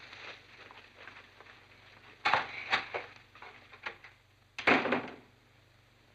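A scattering of short wooden knocks and bumps, like a door and footsteps, with a louder pair about two seconds in and a longer scraping bump a little before five seconds in.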